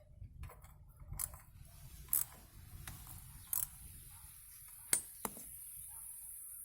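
Hand tool working the Torx bolts of a bicycle disc-brake rotor while the loose rotor is tightened down: a few separate sharp metal clicks and short scrapes, about a second apart, over handling noise. A steady high hiss comes in about halfway.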